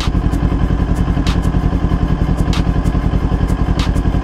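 Kawasaki Ninja 400's parallel-twin engine idling steadily while the bike stands still, with a short light click repeating about every second and a quarter.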